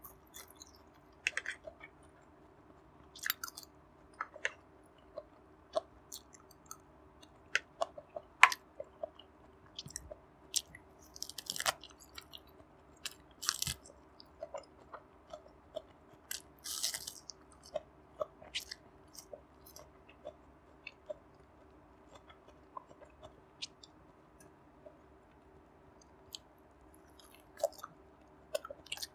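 A person chewing and biting food close to a clip-on microphone: many short wet smacks and clicks, with a few longer crunching bites in the middle.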